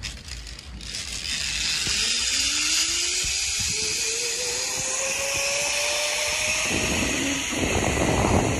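Zipline trolley pulleys running along the steel cable: a whine that rises slowly in pitch as the rider picks up speed and then levels off, over a steady rush of wind.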